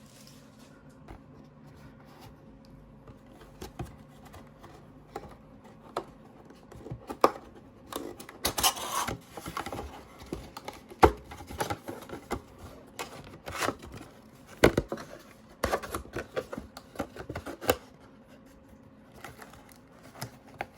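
Hands opening and handling a sealed cardboard trading-card hobby box: scattered taps, clicks and scrapes of cardboard and plastic wrap, with a few brief rustling bursts.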